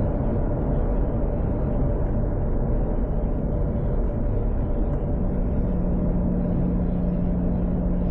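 Tuned Mk4 Toyota Supra's 2JZ straight-six running steadily, a low, even drone from the engine and exhaust with road rumble underneath; its pitch settles lower about five seconds in.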